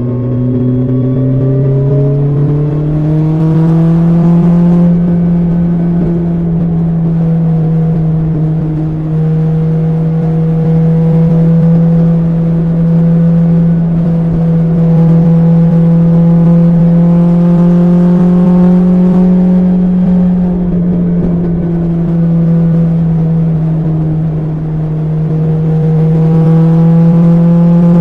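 BMW S1000XR's inline-four engine through an Akrapovic exhaust, running under way at steady revs. The engine note rises over the first few seconds, holds, dips slightly a little past the middle, then climbs again near the end.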